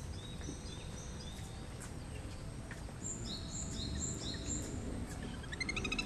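High, short whistled bird notes come in two brief runs. About five and a half seconds in, a rapid, loud trill starts, the whinnying trill typical of little grebes.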